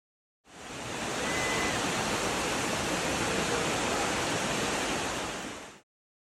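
Steady rush of flowing water, a waterfall or stream, fading in and cutting off after about five seconds, with a brief thin high tone about a second in.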